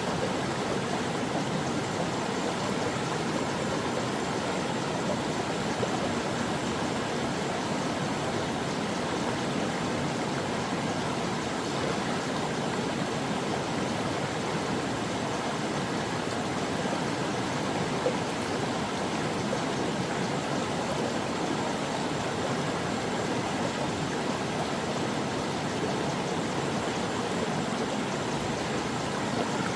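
A stream flowing steadily: a continuous, even rush of water with no breaks.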